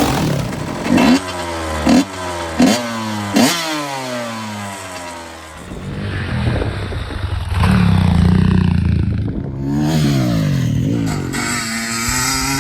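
Motorcycle engine revved in quick blips, about four sharp rises in the first few seconds, each falling away in pitch. It then runs at steadier revs through the later part.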